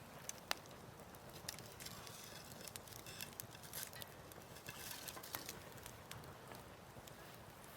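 Wood fire crackling: irregular sharp pops and snaps, one louder pop about half a second in.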